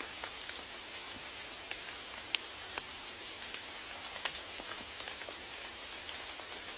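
Steady rain hiss with scattered sharp drips of individual raindrops, the loudest about two and a half seconds in.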